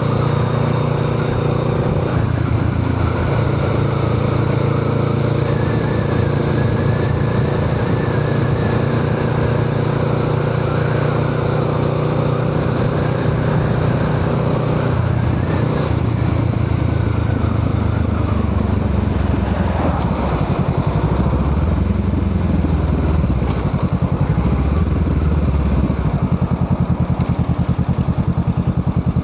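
Honda Rebel 500's parallel-twin engine through a Musarri aftermarket exhaust muffler, running at a steady speed. About two-thirds of the way through, the engine note drops and rises a few times. Near the end it settles into a low, evenly pulsing idle.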